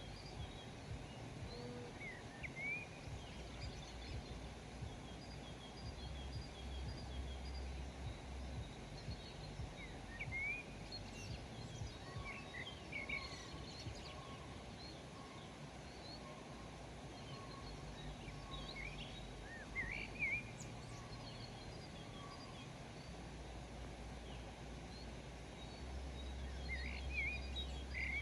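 Wild birds chirping and calling, with scattered short chirps and brief strings of repeated notes, over a steady low background rumble.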